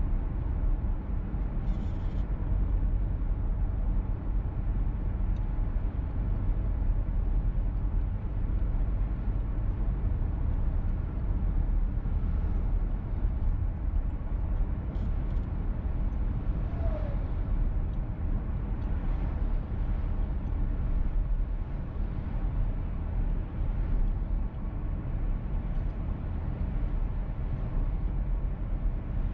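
Steady in-cabin driving noise of a VW T-Roc petrol car: low road and engine rumble at an even level.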